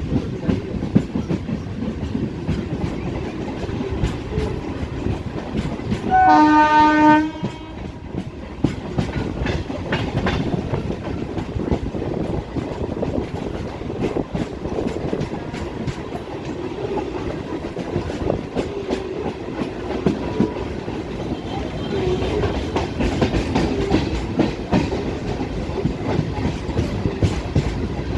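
Old EMU local train running, heard on board: steady rumble of the wheels with a clickety-clack over the rail joints. About six seconds in, one loud train horn blast lasting about a second.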